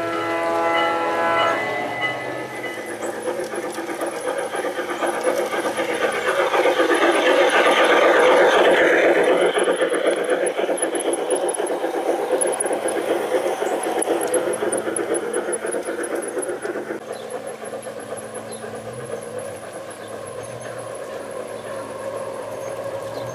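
G-scale model train running on garden track: a horn from its sound unit ends about a second and a half in, then the wheels clatter over the rails, growing louder as the train passes close about eight seconds in and fading as it moves away.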